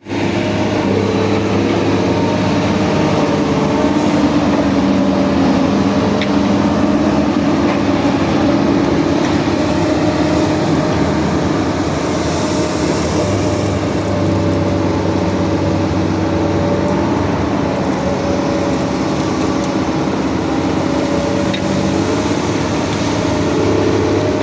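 Excavator diesel engine running steadily, its note shifting a little at times, with a brief hiss about halfway through.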